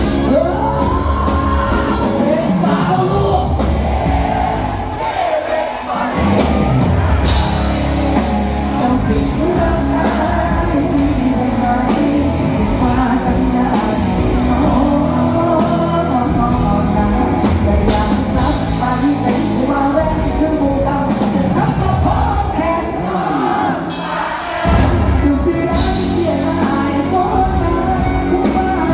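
Live Thai luk thung / mor lam band music with singing, loud and continuous, with a few shouts and whoops over it.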